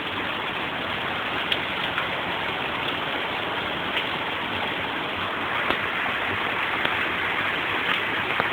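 Heavy rain pouring down steadily in a thunderstorm downpour, with scattered sharper drop ticks.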